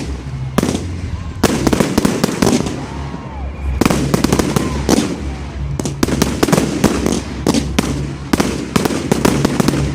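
Fireworks exploding in a display: many sharp bangs and crackles in quick succession, with a steady low rumble underneath.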